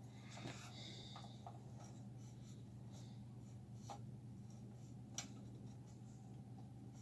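Faint scratching and a few small clicks of hands handling wires and tools, over a steady low electrical hum.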